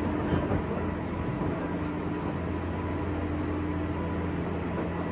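Running noise inside a JR West 201 series electric train's motor car at speed: an even rumble of wheels on rail with a steady hum from the running gear.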